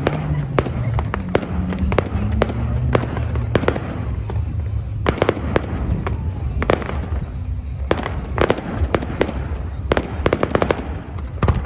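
Fireworks display going off: a steady run of sharp bangs, several coming in quick crackling clusters, over a low continuous rumble.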